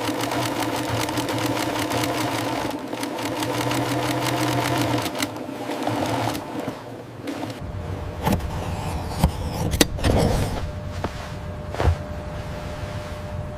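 A small motor-driven machine running with a rapid, even chatter, which stops about seven seconds in. Scattered clicks and knocks follow over a faint steady hum.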